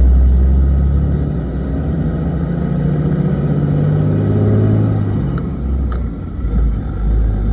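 Cummins 6.7-litre inline-six turbo diesel in a Ram 2500 pulling away under acceleration, its pitch rising for about four seconds. The engine note then drops back, as for a gear change on the manual gearbox, with a couple of light clicks.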